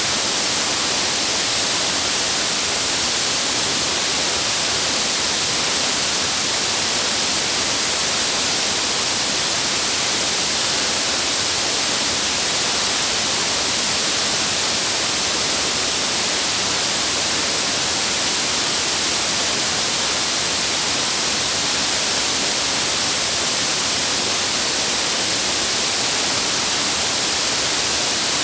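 Waterfall: water falling and rushing in a loud, unbroken hiss, strongest in the upper range.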